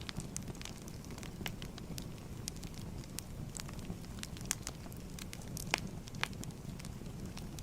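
Wood fire burning: a steady low rumble with irregular sharp crackles and pops from the burning firewood.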